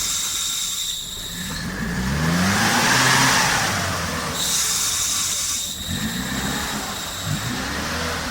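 Off-road 4x4's engine revving up and down twice while stuck in deep mud, with a rushing noise of wheels churning mud and water that is loudest about three seconds in. A thin, high steady whine cuts in and out.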